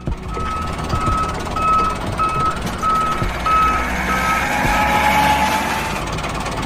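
Vehicle reversing alarm beeping, about eight even beeps at a little under two a second, fading near the end, over a steady low rumble.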